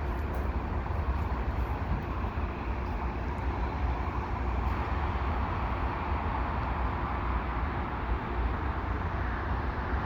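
Freight train rolling past on the rails, a steady rumble with no distinct clanks or horn.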